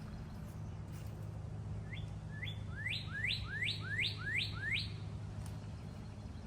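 A songbird singing a run of about seven rising whistled notes, roughly three a second, getting louder through the run, over a steady low hum.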